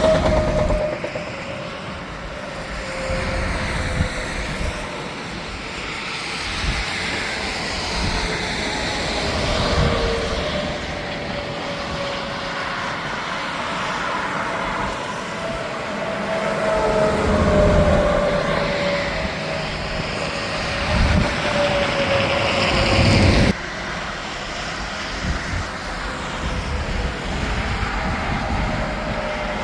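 Tractor-trailers passing on an interstate highway: continuous tyre and engine noise, with whining tones that slide down in pitch as trucks go by. The sound drops abruptly about three-quarters of the way in, then carries on at a lower level.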